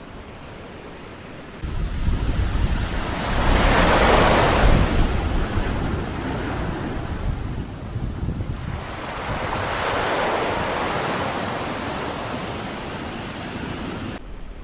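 Sea waves surging in and breaking on the shore, two big swells about six seconds apart, with strong wind buffeting the microphone as a low rumble.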